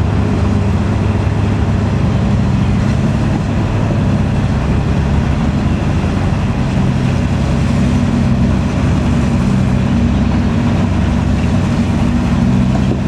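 Old Toyota DA100 'buaya' truck's diesel engine running steadily with a low drone that shifts slightly in pitch about eight seconds in.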